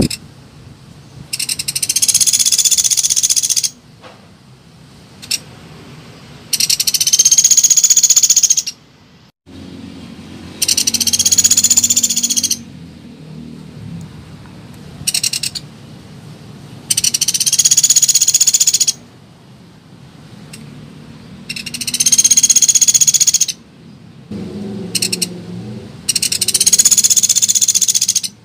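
Recorded calls of a pelatuk beras woodpecker used as a lure: a loud, high-pitched rattling call about two seconds long, repeated six times at intervals of four to five seconds, with a few faint short calls between.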